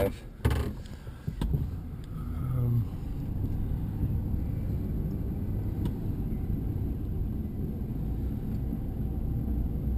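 Chevy 2500HD pickup's 6.0-litre V8 engine and road noise heard from inside the cab as the truck sets off on a drive: a couple of knocks in the first second and a half, then a steady low rumble.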